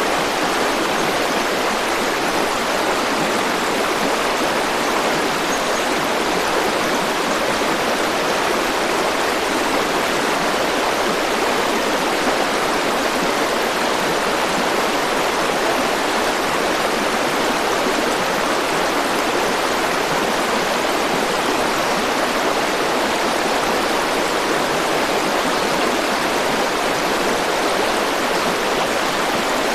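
Flowing river water rushing steadily, an even, unbroken sound of a stream.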